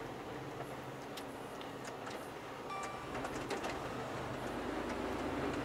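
Truck engine running steadily, heard from inside the cab while driving, with scattered light ticks and clicks; the engine hum gets louder about four seconds in.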